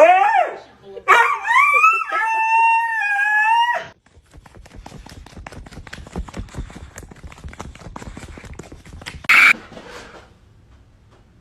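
A dog making long whining calls that rise and fall in pitch for the first four seconds. These are followed by several seconds of rapid small clicks and a short hiss.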